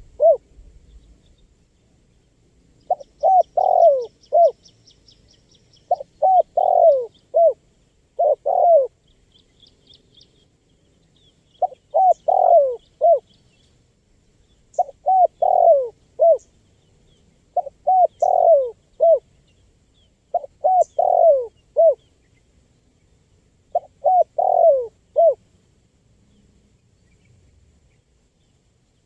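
Spotted dove (tekukur) calling: about eight phrases of several quick coos, each phrase about a second and a half long, with pauses of a couple of seconds between them and a longer gap near the end.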